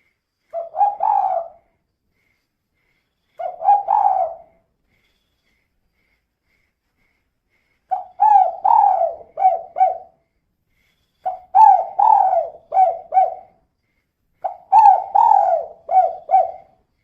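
A female spotted dove cooing: two short phrases, then three longer phrases of about five coo notes each.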